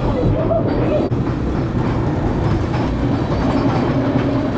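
Mine train roller coaster climbing its second lift hill: the cars clatter and rumble steadily as the chain lift pulls them up.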